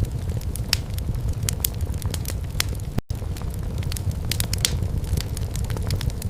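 Wood fire in a fireplace crackling: irregular sharp pops and snaps over a steady low rumble of the burning logs. The sound drops out for an instant about halfway through.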